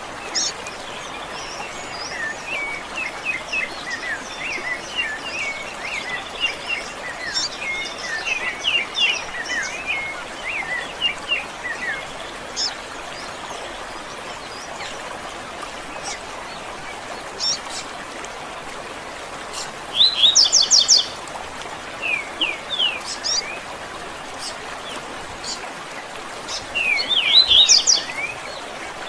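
Several songbirds chirping and singing over a steady background hiss, with a busy run of short twittering notes in the first half and two louder bursts of rapid chirps later on.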